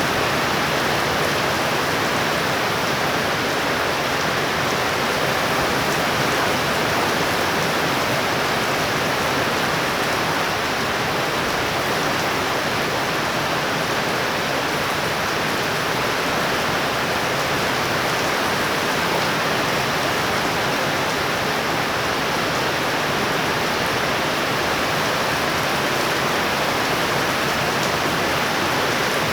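Heavy rain from a tropical storm band falling in a steady downpour: a dense, even hiss with no thunder and no rise or fall in strength.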